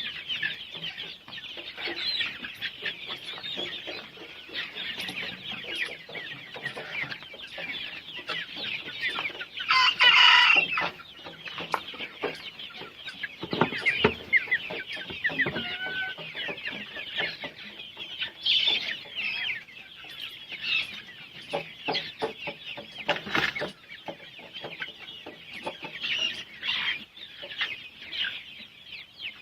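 A flock of young Golden Misri chickens (about 65 days old) keeps up a dense, continuous chorus of clucks and cheeps. One louder, longer call rises out of it about ten seconds in, and a few sharper calls come later.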